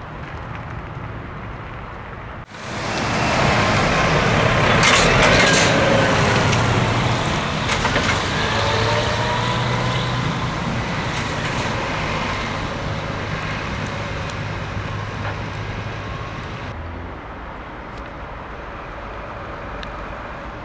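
A Scania truck driving by close: a low engine drone with whining tones that slide in pitch. It comes in suddenly about two seconds in, is loudest soon after, then fades slowly. Near the end it drops back to a quieter road rumble.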